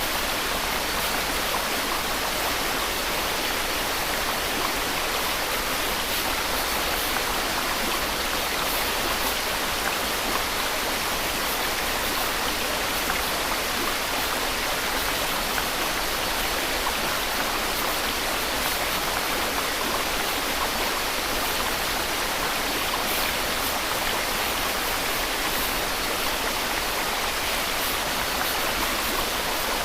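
Steady white noise: an even, unchanging hiss with no breaks or separate events.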